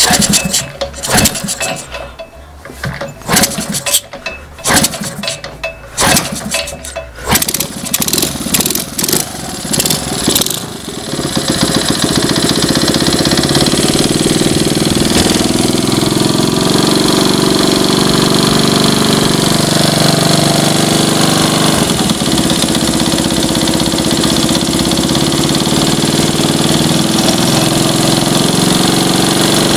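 An engine being started after a repair: irregular sharp pops and sputters for about ten seconds, then it catches and settles into a steady idle.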